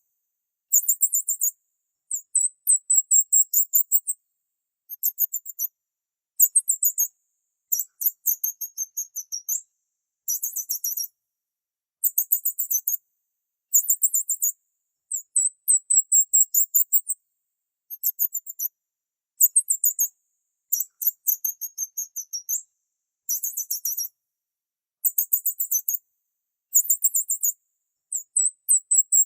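Small birds chirping in short bursts of rapid, very high-pitched chirps, one burst about every second or two with silent gaps between.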